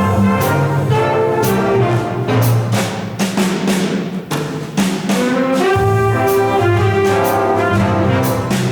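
Student instrumental ensemble performing, with brass playing sustained chords over regular percussion strokes.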